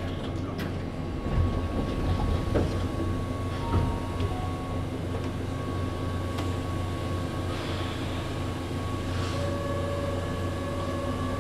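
Keihan 8000 series train running, heard from inside the passenger car: a steady low rumble with a few wheel thumps in the first four seconds and a faint, steady high tone.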